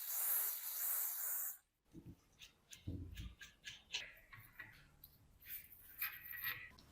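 Workshop handling sounds: a loud hiss lasting about a second and a half, then scattered small clicks and knocks with one low thud about three seconds in, and a scraping stretch near the end.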